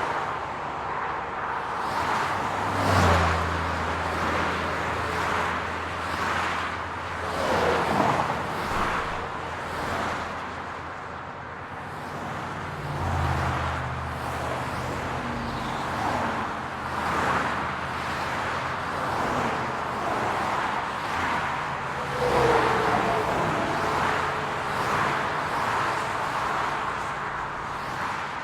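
City road traffic: cars passing one after another, swelling and fading every few seconds, over a low steady engine hum that holds for several seconds at a time.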